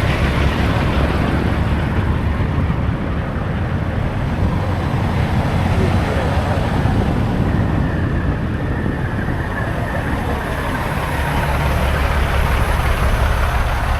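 Semi-truck engine running and road noise while driving, a steady low rumble.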